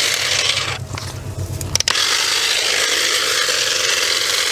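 Ryobi 18-volt cordless saw cutting through vines and brush in two spells, with a brief dip between them a little under a second in. It cuts off suddenly near the end.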